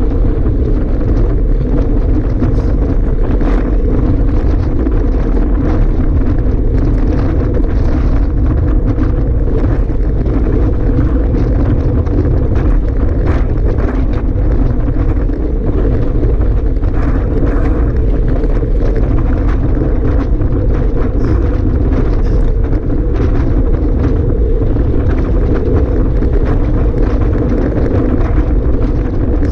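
Strong wind blowing over the microphone: a loud, steady rumble with faint scattered crackles.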